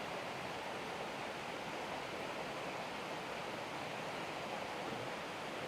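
Steady rushing of river water, an even hiss-like wash with no change throughout.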